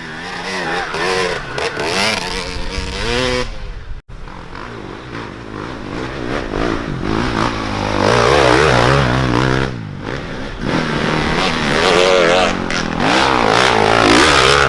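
Off-road dirt bike engines revving up and down as riders accelerate and shift through the race course, several bikes heard over one another, with a brief break about four seconds in.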